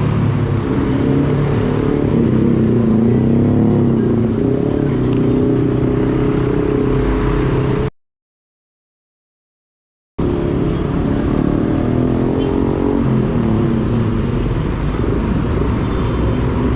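Road traffic with motor vehicle engines running close by, their pitch wavering, under a steady noise of traffic. About eight seconds in, the sound drops out completely for roughly two seconds, then the traffic resumes.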